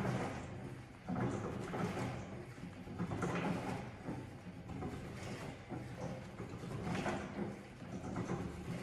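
Leg extension machine worked through repetitions: the weight stack and carriage slide and clunk in surges every second or two.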